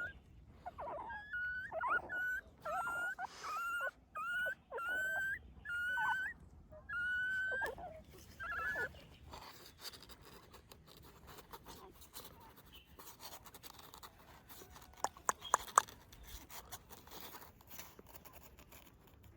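Newborn puppies crying in short, high-pitched squeals, about a dozen in quick succession, which stop about nine seconds in. Faint rustling follows, with a few sharp clicks.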